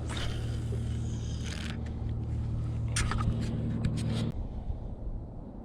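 A steady low motor hum that cuts off suddenly about four seconds in, with scraping and a few sharp clicks over it.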